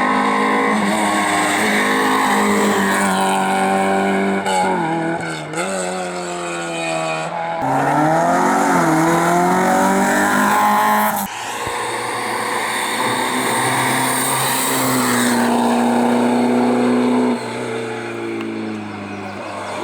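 Race car engines at hard throttle on a hillclimb, revs climbing and dropping over and over through gear changes and corners, with sudden switches from one car to another.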